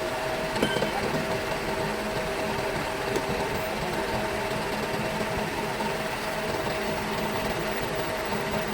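A steady machine hum with a few light clicks.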